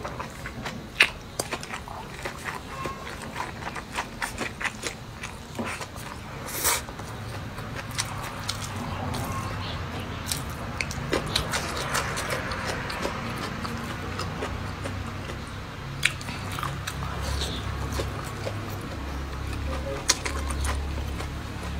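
Close-up eating sounds: biting and chewing green chili peppers and rice, with many small sharp mouth clicks. A low steady hum comes up in the second half and is strongest near the end.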